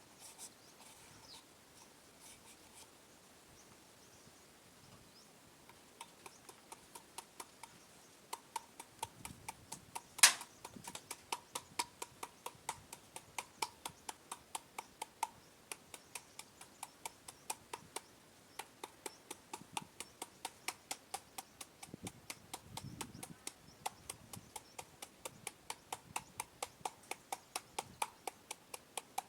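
Pestle pounding in a mortar while making green papaya salad: steady rhythmic knocks, about three a second, beginning some six seconds in, with one much louder knock about ten seconds in.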